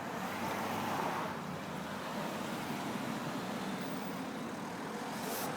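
Road traffic: a car passing, swelling about a second in, over a steady traffic hum.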